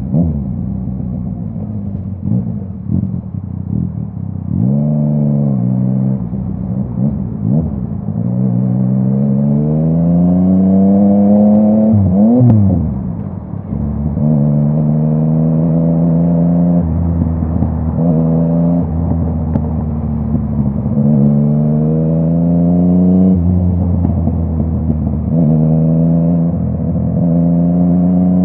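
Yamaha MT-09's three-cylinder crossplane engine through a full Akrapovic exhaust, accelerating through the gears. The pitch climbs on each pull and drops at each upshift, several times over. About twelve seconds in, one rev peaks and falls away sharply.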